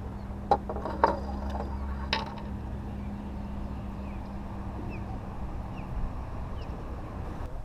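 A few sharp knocks on a small fishing boat, over a steady low hum that stops about six seconds in.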